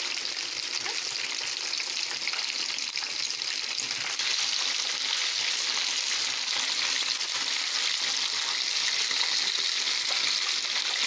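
Breaded chicken pieces deep-frying in hot oil in a pan: a steady sizzling hiss that gets a little louder about four seconds in. The chicken is golden brown and near done.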